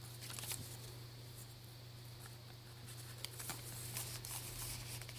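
Faint paper rustling and soft clicks as a fold-out tag and pages of a handmade paper journal are handled and unfolded, over a steady low hum.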